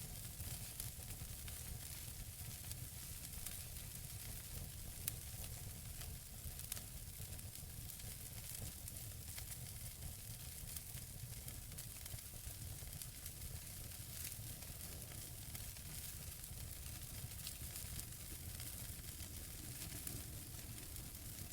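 Wood fire burning in a fireplace: a steady hiss with many small crackles, and two louder pops about five and seven seconds in.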